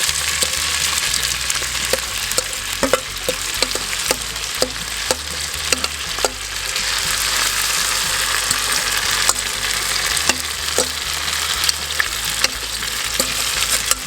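Corn kernels frying in bacon grease in a cast iron skillet, a steady sizzle with frequent sharp clicks and taps throughout.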